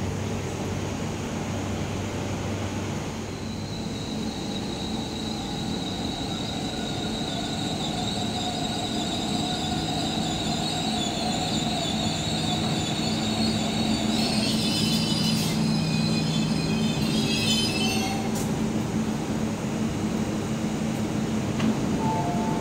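MTR East Rail Line electric train pulling into the platform and braking to a stop. A steady high whine builds from about four seconds in, and the wheels squeal in the last few seconds before the train halts, about eighteen seconds in. Near the end a two-tone chime begins.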